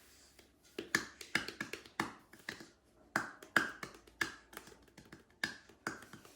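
A quick, irregular run of sharp clicks starting about a second in: a Hoover Vision Dynamic washing machine's controls being operated to set a new programme.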